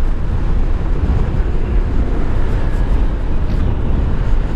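Steady wind rush and road noise from riding a 2018 Zero SR electric motorcycle at speed, with no engine sound.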